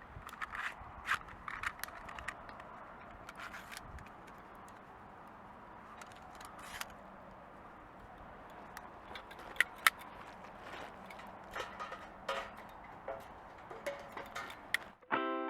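Scattered light clicks and small rattles, like handling of small mechanical objects, over a faint steady background noise; near the end distorted electric guitar music starts.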